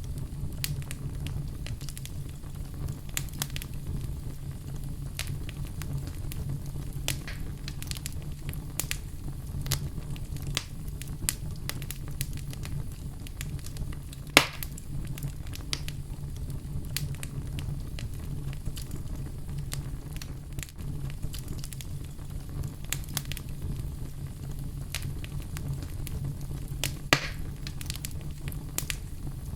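Wood fire burning in a fireplace: a steady low rumble of flames with scattered crackles and pops, two sharper pops standing out about halfway through and near the end.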